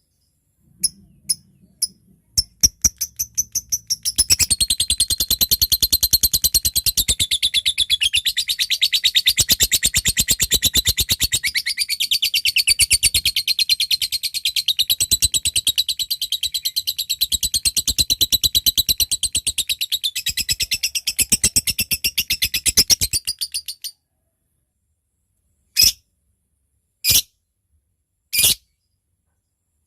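Lovebird calling: a few separate sharp ticks ('ngetik'), then about four seconds in a long, very fast chattering trill ('ngekek panjang') that runs for about twenty seconds and stops abruptly, followed by three single short chirps.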